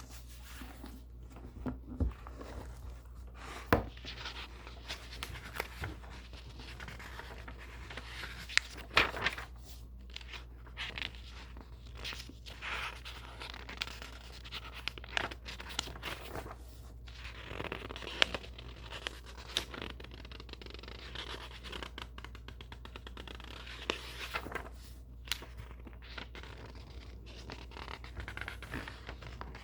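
Book pages being handled and turned, the paper rustling and scraping in irregular strokes, with a few sharp taps or snaps standing out.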